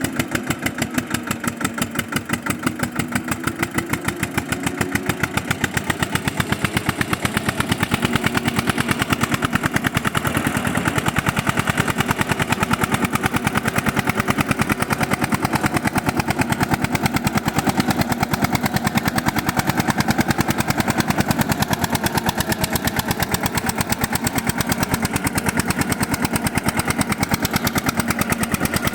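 Diesel tractor engine running with a steady, even chug of closely spaced firing pulses. It grows louder a few seconds in, then holds steady.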